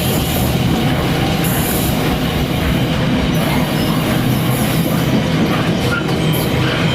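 Freight train passing close by: a steady, loud rumble of wagons running on the rails, with a high-pitched hiss or squeal from the wheels that comes and goes every second or two.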